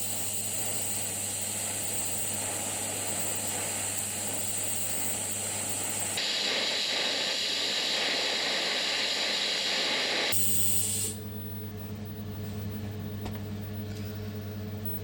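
TIG welding arc hissing steadily as ER70S-6 steel filler wire is laid in to build up a worn part, over a low electrical hum. The hiss changes tone about six seconds in and stops about eleven seconds in, leaving the hum.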